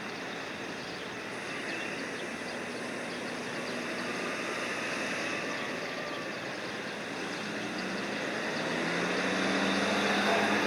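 Large cargo crane's engine running steadily during unloading, a low hum coming up and growing louder in the last few seconds as it works under load.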